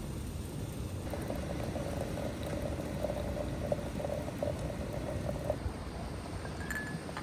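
Liquid bubbling at a boil in a cooking pot, with a faint wavering hiss.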